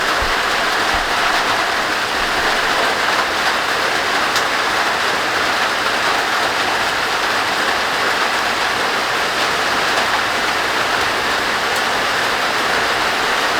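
Heavy rain falling in a steady, loud downpour, with no let-up.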